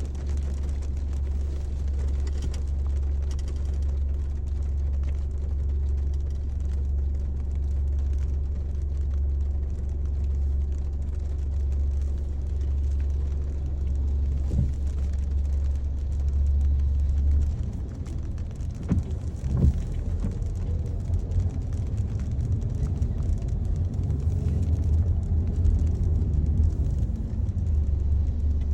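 Car road noise heard from inside the cabin while driving: a steady low drone that becomes an uneven rumble about two-thirds of the way through, with a few light knocks around that change.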